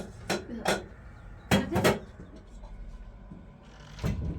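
A handful of sharp knocks and clatters, two of them close together, then a brief rustling scrape near the end.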